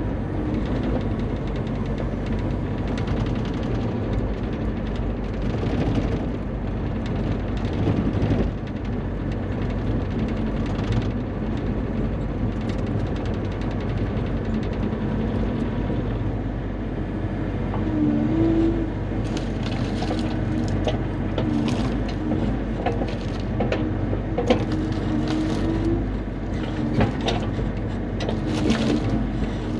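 Bobcat E35 mini excavator's diesel engine running steadily while it works, with a tone that wavers in pitch in the second half and scattered sharp clicks and knocks, most of them in the second half.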